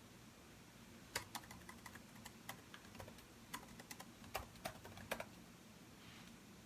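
Typing on a computer keyboard: a quick run of keystrokes starting about a second in and stopping a little after five seconds.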